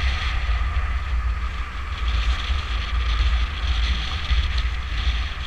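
Wind buffeting the microphone of a moving motorcycle, a heavy fluctuating rumble, over the steady hum of the bike and surrounding road traffic.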